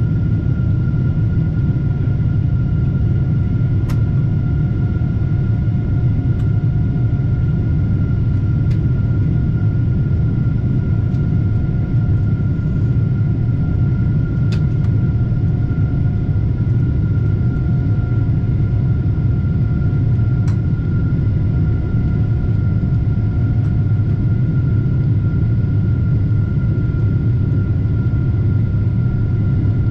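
Steady cabin noise of a Boeing 747-8 airliner: a constant deep rumble of engines and airflow with a thin steady whine above it, and a few faint clicks.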